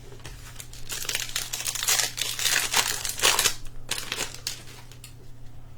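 Crinkling of a trading-card pack's plastic wrapper as it is torn open and handled, a close run of crackles from about a second in until near the end.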